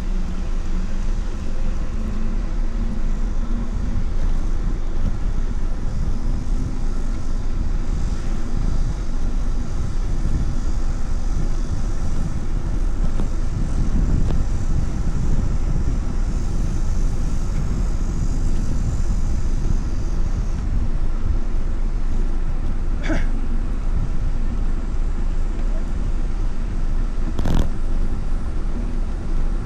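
Steady wind and road rumble on a moving rider's microphone, with two short clicks near the end.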